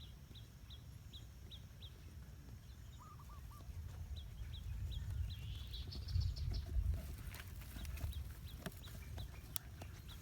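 A bird chirping in a run of short, high peeps, about two a second, over a faint low rumble.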